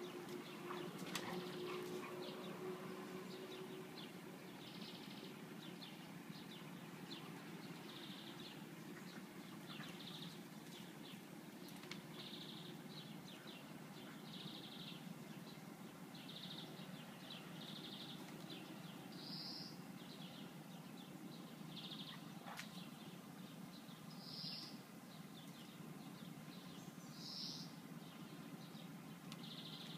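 Faint outdoor ambience: a small bird chirping over and over, short high calls every second or two, over a steady low background hum.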